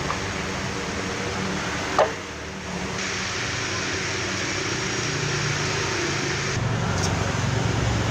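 Electric fan running with a steady whir and motor hum, with a sharp click about two seconds in; the whir grows gradually louder toward the end.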